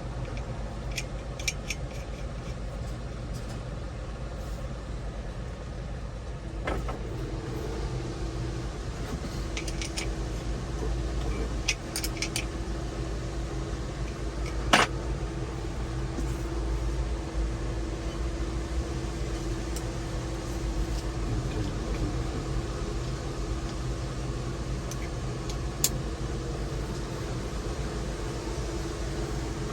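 Engine idling with a steady low hum, with scattered clicks and knocks of parts and tools being handled. A steadier, higher hum joins about seven seconds in, and one sharp knock stands out about halfway through.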